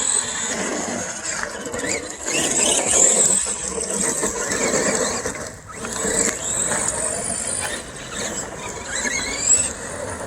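Two brushed-motor RC monster trucks running at speed, their motors and gears giving a high whine that rises and falls with the throttle, over steady tyre noise on the pavement.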